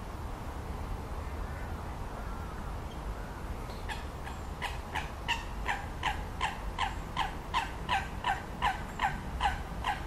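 A bird giving a long run of short, harsh calls, about three a second, starting about four seconds in and getting louder.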